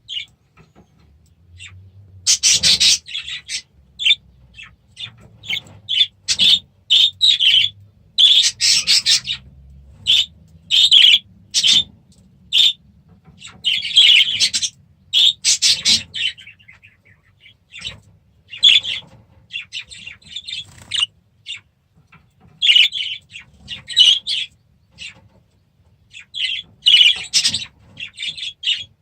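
Small cage birds chirping and chattering: a steady, irregular stream of short, bright calls with brief pauses, and a faint low hum under the first half.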